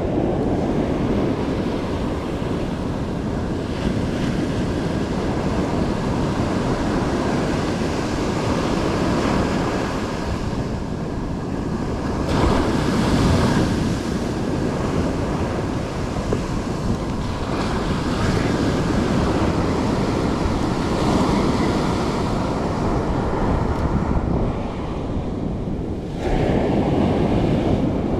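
Ocean surf washing ashore, with wind rumbling on the microphone; the wash swells louder about halfway through and again near the end.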